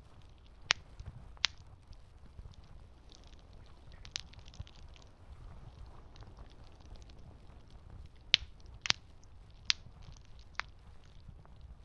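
Campfire burning with a low, steady rumble, broken by sharp pops and crackles of the burning wood: a couple early, one near the middle and a quick cluster of four near the end.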